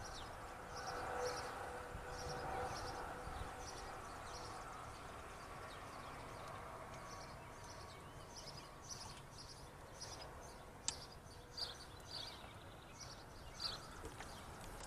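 Outdoor ambience of small birds chirping over and over, short high chirps throughout, over a low rumble, with a few sharp clicks in the second half.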